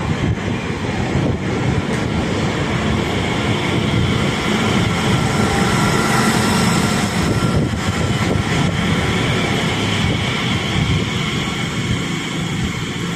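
Elizabeth line Class 345 electric train running, heard from inside the carriage: a steady rumble of wheels on the track with a faint electric motor whine, louder in the middle.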